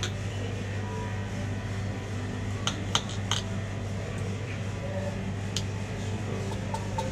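A steady low hum with a few short, sharp clinks near the middle, like dishes or glass being handled.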